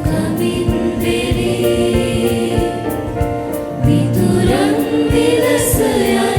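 A church choir singing a hymn with instrumental backing and a steady beat underneath.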